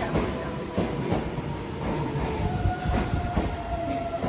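An electric commuter train running alongside a station platform, its wheels clacking over the rail joints, with a steady whine coming in about halfway through.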